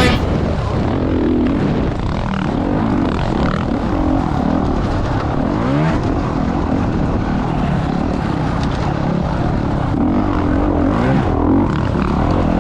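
Off-road motorcycle engines revving, their pitch rising and falling again and again.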